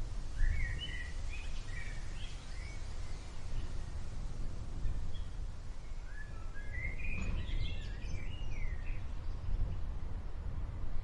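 Small birds chirping in short, quick phrases, one run near the start and another just past the middle, over a steady low rumble.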